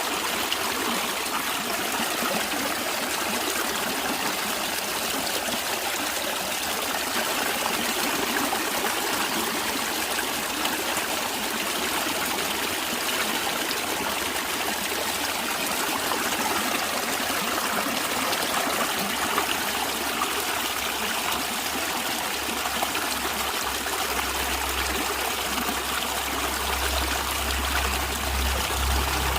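Water of a natural stream flowing steadily, an even unbroken rush. A low rumble joins in underneath near the end.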